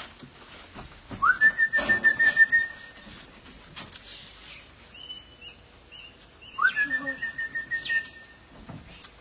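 Whistling to call parrots: two long whistles, each sliding quickly up and then held on one wavering note for about a second and a half. The first comes about a second in, the second a little past halfway.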